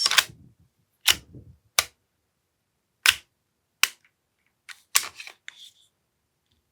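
AAP-01 gas blowback airsoft pistol being test-fired after a trigger repair: about six sharp cracks of the gas-driven action at irregular spacing, some in pairs.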